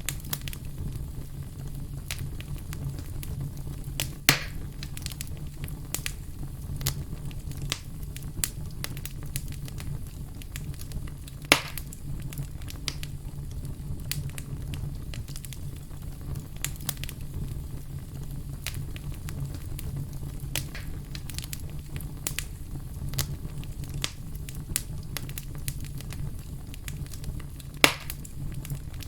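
Wood fire crackling steadily over a low rumble of flame, with frequent small crackles and three louder pops: about 4 seconds in, about 11 seconds in, and near the end.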